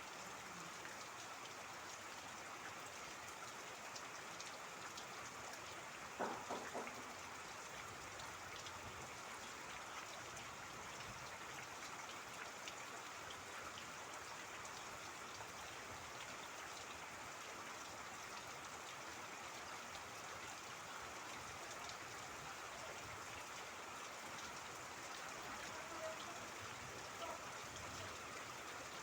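Steady rain falling with trickling water, many small drops ticking through it. About six seconds in, a brief run of a few louder drips stands out.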